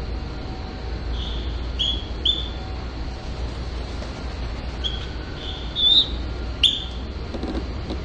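Small birds chirping: short, high chirps, about seven of them scattered through, the loudest near the end, over a steady low rumble.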